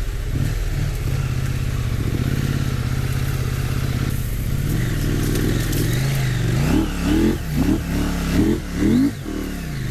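Husqvarna Norden 901 adventure motorcycle's parallel-twin engine running at steady low revs, then revving up and down about five times in quick succession near the end as the rider works the throttle in deep soft sand.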